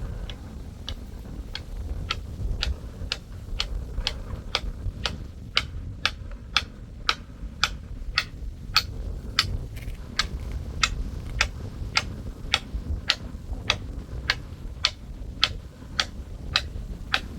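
Sharp, even taps about twice a second, over a low rumble that sounds like wind on the microphone.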